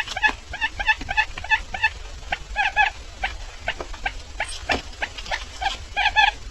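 Barred buttonquail calling: a rapid run of short, pitched chirping notes, about three or four a second, with a few sharp clicks among them.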